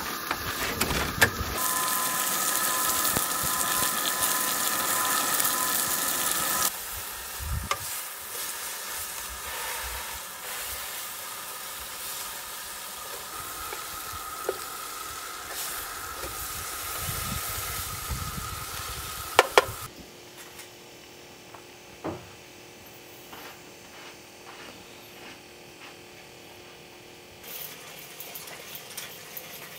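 Food sizzling on a propane camp stove, a steady frying hiss that is loudest in the first several seconds and then settles lower. A couple of sharp clicks come just before it cuts off suddenly about twenty seconds in, leaving a quiet background with a few faint knocks.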